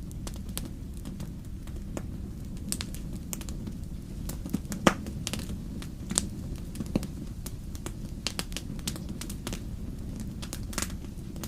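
Wood fire burning in a fireplace: logs crackling with irregular sharp pops over a steady low rumble, one louder pop about five seconds in.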